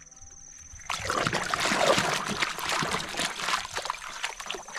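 Water running and splashing, starting suddenly about a second in, as toys are rinsed clean.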